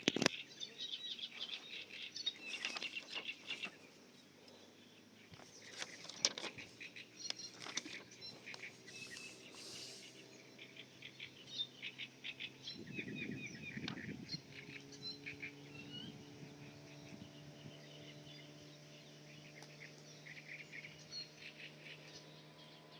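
Small songbirds chirping and singing on and off, with scattered light clicks and knocks. A low, steady hum comes in about halfway through.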